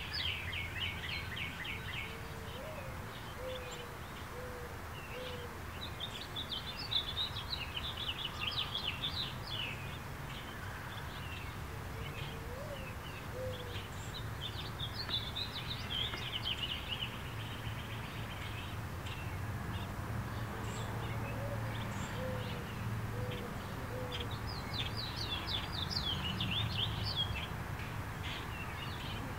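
Backyard birds singing. A songbird repeats a trilled phrase of quick notes every several seconds, and a lower call of a few notes comes three times, over a steady low background hum.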